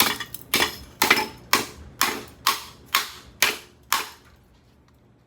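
About nine sharp metal-on-metal strikes on the steel housing of a Craftmade ceiling fan motor as it is smashed, roughly two a second, each with a short ring, stopping about four seconds in.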